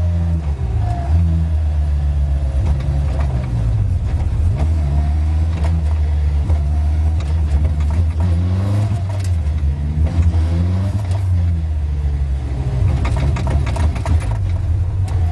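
Caterham race car's engine heard from the open cockpit, running at low revs as the car slows in traffic. The engine note rises and falls a few times in the middle and again near the end, with short clicks scattered through.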